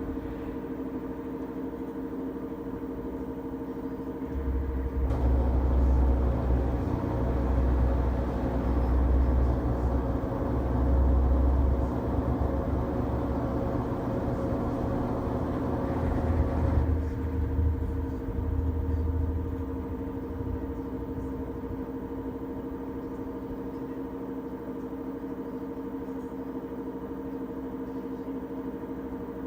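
LG Tromm front-loading drum washing machine running mid-cycle with a steady motor hum. From about four seconds in to about seventeen seconds the drum turns and the laundry tumbles, giving a louder low rumble in uneven pulses. Then it falls back to the steady hum.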